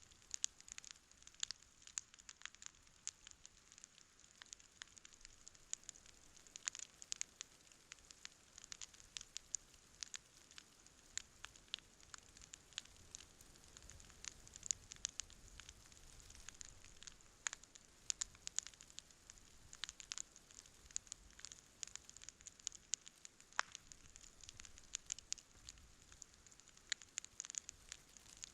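Wood campfire crackling and popping: a faint steady hiss under many sharp, irregular snaps from the burning logs.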